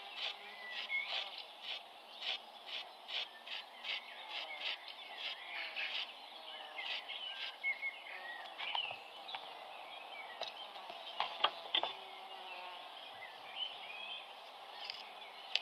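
Outdoor ambience: insects chirping in a regular pulse of about two or three chirps a second through the first half, with scattered bird calls. A few sharp knocks come about eleven seconds in.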